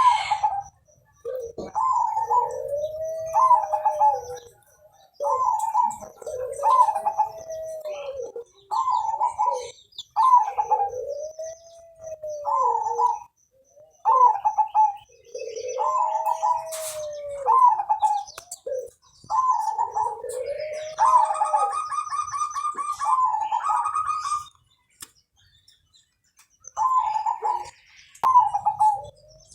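Zebra dove (perkutut) singing its repeated cooing song: each phrase is a few short higher notes followed by a lower, drawn-out coo that rises and falls, repeated about every two seconds. A rapid chirping trill cuts in once about two-thirds through, and the song pauses briefly near the end before resuming.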